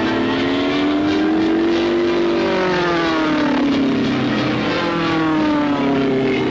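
Aircraft engine droning, its pitch rising over the first two seconds and then falling slowly again.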